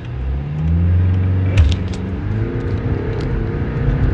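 BMW 520d G30's B47 four-cylinder turbodiesel accelerating hard, its note climbing, with a gearshift break about a second and a half in, then pulling again through the next gear.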